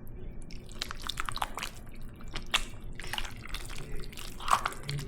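A utensil stirring and working through a pot of thick cooked stew: scattered light clinks and taps with wet squelching.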